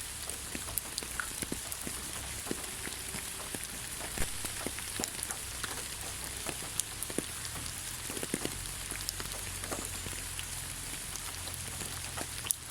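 Steady rain falling on the ground: an even hiss with many scattered, sharp ticks of individual drops striking.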